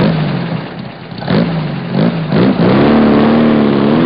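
A car engine revved in a few quick blips, then held at high revs for the last second and a half.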